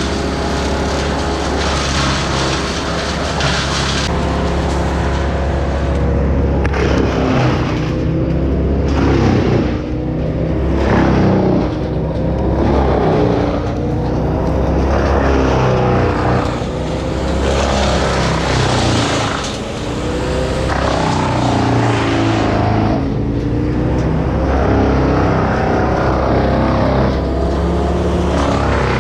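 Small petrol engines of tree-removal power equipment running together, their pitch rising and falling over and over as they rev and bog under load.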